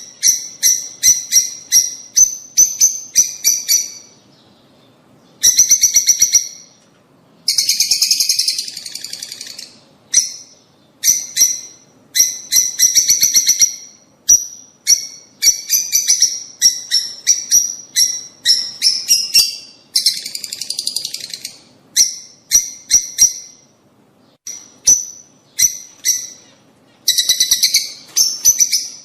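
Rosy-faced and Fischer's lovebirds calling: loud runs of rapid, shrill chirps in quick series, broken by short pauses.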